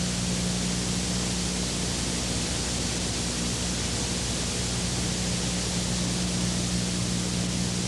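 Steady hiss with a low, even hum under it, unchanging throughout: the noise floor of the old video recording.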